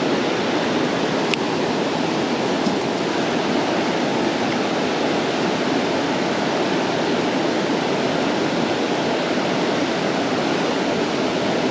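Steady rush of creek water running over rapids.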